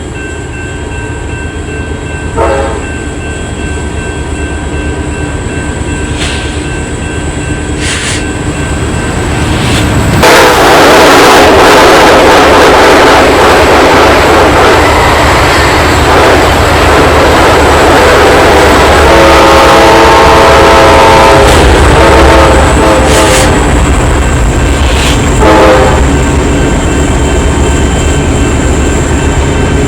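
A train passing close by: a low rumble builds, then the loud rush of the wheels and cars begins about a third of the way in. The horn sounds a short blast near the start, a longer blast about two-thirds of the way through, and another short blast shortly after.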